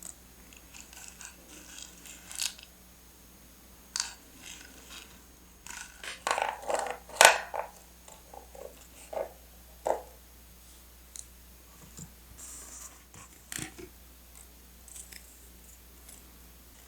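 Paper and stationery being handled on a desk: a string of short rustles, crinkles and light taps, the loudest cluster of crinkling about six to seven seconds in.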